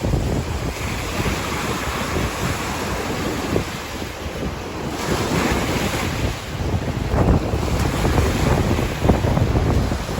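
Strong wind buffeting the microphone in uneven gusts, with waves washing at the bay's shoreline underneath.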